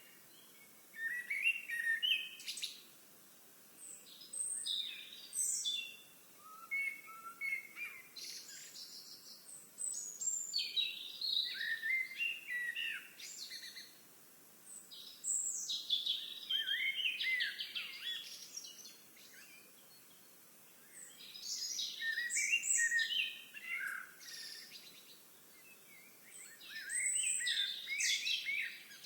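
A songbird singing complex, warbled phrases of two to three seconds each, repeated about seven times with short pauses between them.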